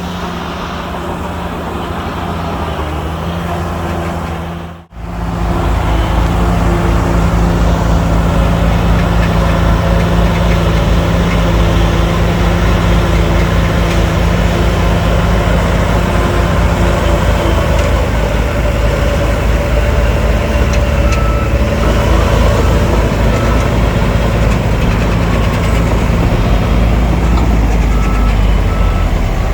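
Heavy diesel earthmoving machinery running steadily, a bulldozer or dump truck engine with a pulsing low rumble. The sound cuts out briefly about five seconds in and comes back louder. Faint beeps at about one a second near the end fit a reversing alarm.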